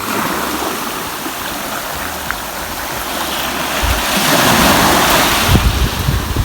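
Waves washing onto a beach, with one louder wash about four seconds in. Wind buffets the microphone near the end.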